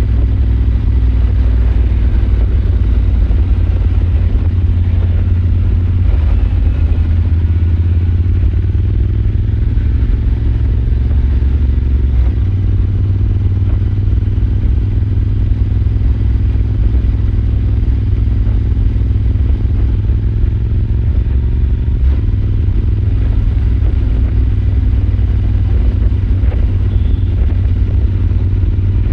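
Royal Enfield Super Meteor 650's 648 cc parallel-twin engine running under way at a steady cruise, with a deep exhaust rumble. Its note shifts in pitch between about six and twelve seconds in, then holds steady.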